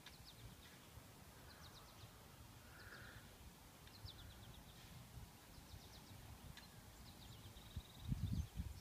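Faint birds chirping in quick high runs of notes every second or so, over a quiet outdoor background. A brief low rumble comes near the end.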